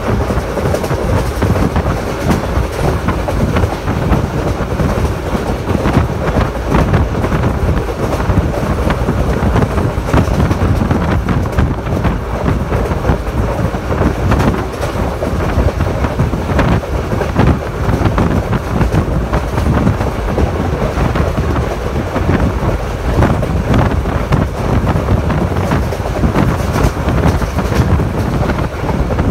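Passenger train running at speed, heard from on board: a loud, steady rumble of wheels on the track with a rapid clatter of clicks running through it.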